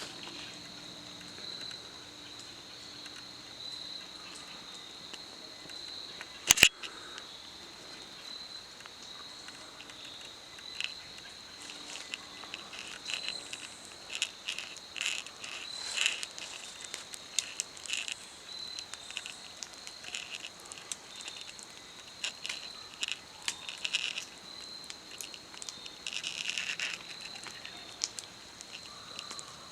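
Crickets or similar insects singing in a steady, high, unbroken drone, with scattered short chirps through the second half. A single sharp knock about six and a half seconds in stands out above everything else.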